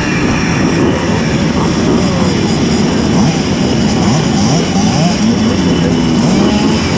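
Several tuned Simson S51 mopeds with 90 cc reed-valve two-stroke engines running together, their engine pitches overlapping and rising and falling as the riders rev and shift.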